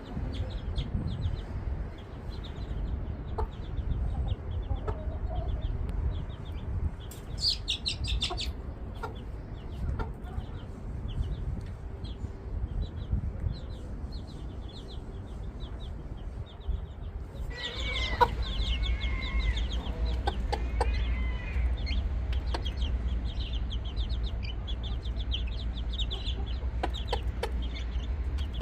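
Chickens clucking, with a low rumble underneath throughout; the calls grow louder and busier about two-thirds of the way in.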